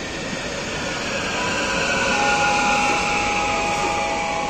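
Passenger multiple-unit train moving off along the track: a steady rumble of wheels with a whine that falls slightly in pitch, loudest a couple of seconds in.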